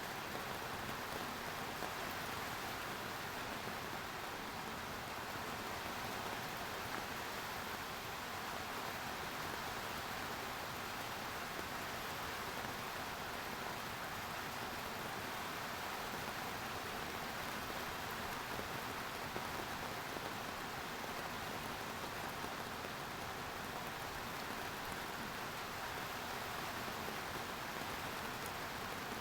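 Steady rain falling, an even continuous hiss of rainfall on surfaces with no change in intensity.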